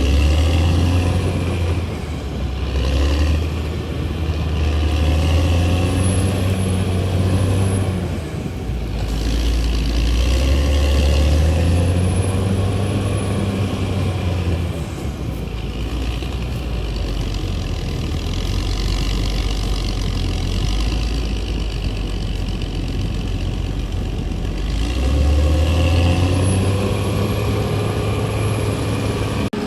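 CAT D6R XL crawler bulldozer's diesel engine working under load. It runs steadily and swells up in revs and load several times, easing back in between.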